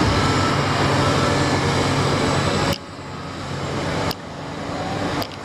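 Engine of heavy construction machinery running steadily. It drops abruptly in level about two and a half seconds in and again at about four seconds, then builds back up each time.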